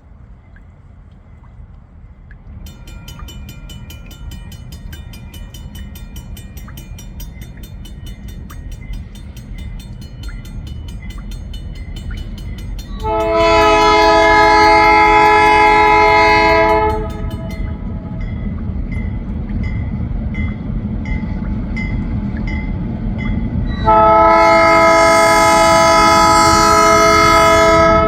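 Diesel freight locomotive approaching, its engine rumble growing steadily louder, sounding two long blasts on the cast P5 air horn of EMD SD38-2 878, one about halfway through and one near the end. A bell rings rapidly behind it.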